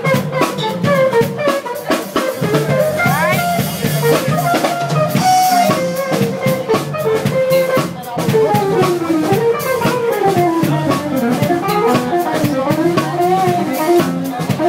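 A band playing, with a drum kit keeping a steady beat under guitar and a lead line that bends up and down in pitch.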